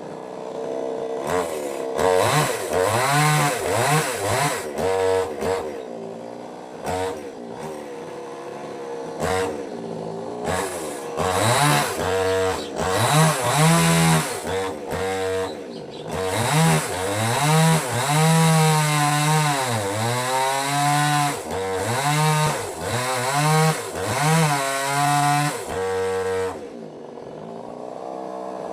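Small petrol chainsaw cutting wood, its engine revving up and down over and over, then dropping back to a steady idle near the end.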